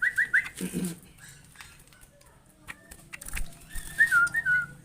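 Small prinia giving high, thin chirps: a quick run of about four rising notes at the start, then a wavering, falling run of chirps about four seconds in. Scattered light clicks run between them.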